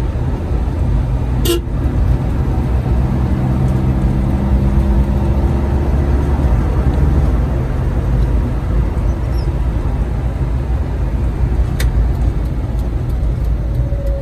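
Vehicle on the road: a steady low rumble of engine and tyres, with a horn sounding for a few seconds about four seconds in. There are two sharp clicks, one early and one near the end.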